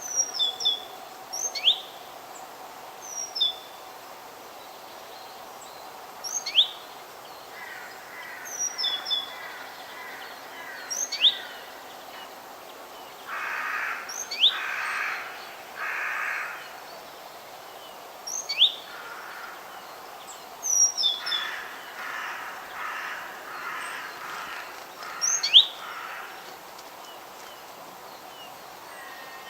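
Forest birds calling: short, sharp high chirps repeated every second or two, joined twice by a run of harsh, raspy calls.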